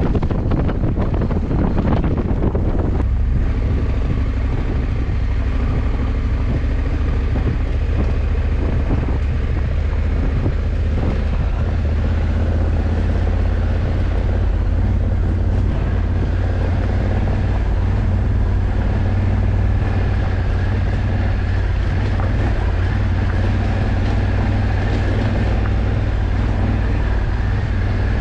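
Honda CRF1100 Africa Twin's parallel-twin engine running at a steady cruising speed, with wind blowing across the microphone. The wind is heaviest for the first three seconds.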